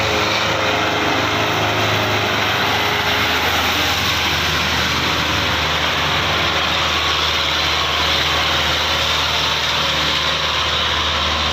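Belarus 510 tractor's four-cylinder diesel engine running steadily at a constant speed.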